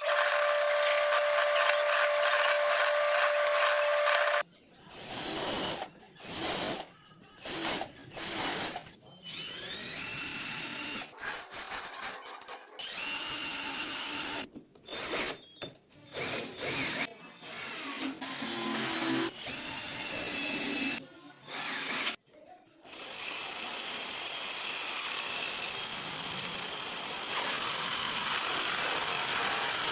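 Power drill running: a steady run at first, then many short start-stop bursts, then a long steady run in the last several seconds.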